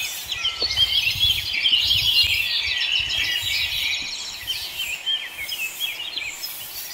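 Many small birds chirping and chattering at once, a dense chorus of quick overlapping high calls.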